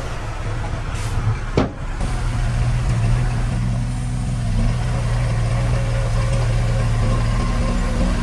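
Diesel engine of heavy earthmoving machinery running steadily with a low hum, with a single sharp clank about one and a half seconds in.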